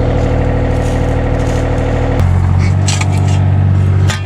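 Small excavator's diesel engine running steadily under load, its note shifting about halfway through, with a few light clicks and a sharper knock near the end.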